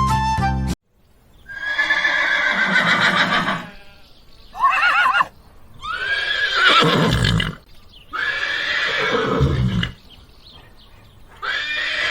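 A horse neighing and whinnying five times, each call a wavering, quivering cry lasting one to two and a half seconds. A short burst of music ends just under a second in.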